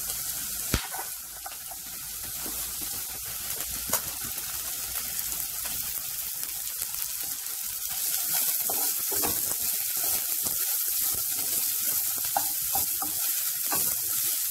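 Chopped vegetables sizzling as they are stir-fried in a non-stick kadai, stirred with a wooden spatula. Two sharp knocks of the spatula against the pan come about one and four seconds in. The sizzle grows louder about eight seconds in, when shredded cabbage is tossed in and stirred through.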